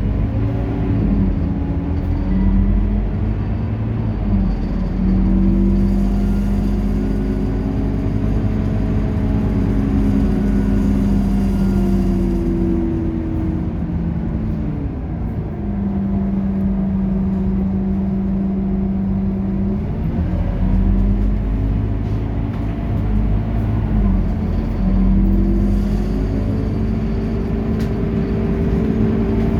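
Scania K230UB single-deck bus running, its engine pitch rising and falling several times as it pulls away, changes gear, cruises steadily and slows.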